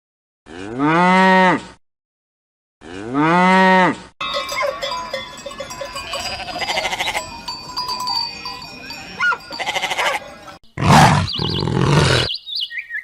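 A cow mooing twice, two identical calls about a second and a half each whose pitch rises and then falls. These are followed by several seconds of cowbells clanking in a busy farmyard mix, and two short rough calls near the end.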